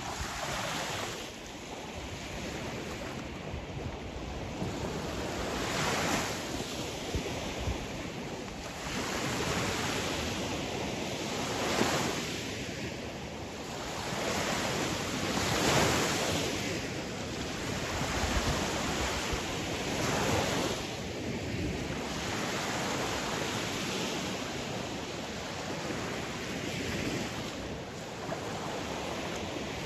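Sea waves breaking and washing on a shore, swelling and fading in repeated surges every few seconds, with some wind noise on the microphone.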